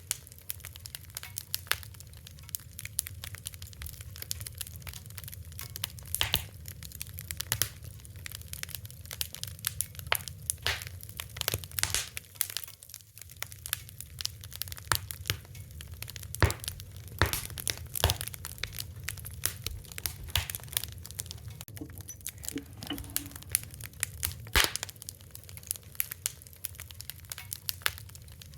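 Wood fire crackling and popping, with irregular sharp snaps over a low steady rumble of burning.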